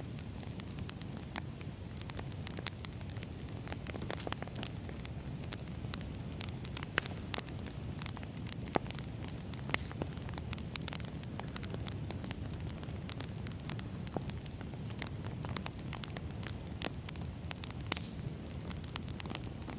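Wood fire burning: a steady low rumble with frequent sharp crackles and pops from the burning logs, a few louder pops standing out.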